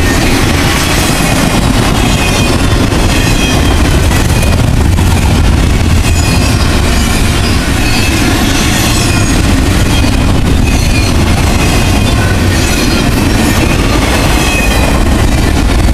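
Double-stack container train's well cars rolling past close by, a loud steady rumble of wheels on rail. High-pitched wheel squeal wavers in and out over it.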